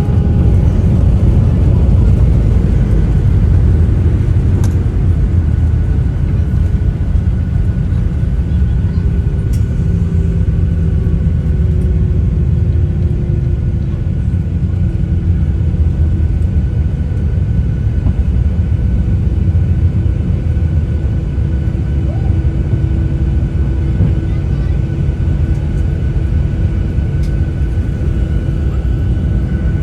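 Airplane engines running with a heavy, steady rumble and a constant whine; partway through, one whine tone slowly falls in pitch.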